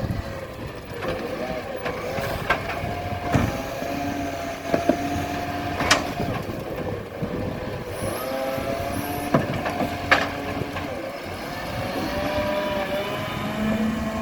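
Garbage truck engine running, its pitch falling and rising as the revs change, with a few sharp knocks or clanks along the way.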